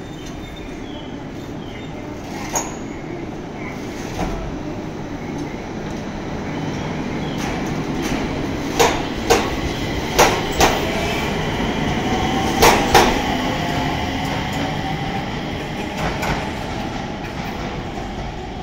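JR East 701-series electric train pulling out and gathering speed, its wheels clacking over rail joints, mostly in pairs a half-second apart as each bogie crosses, loudest in the middle. A faint rising whine comes in partway through.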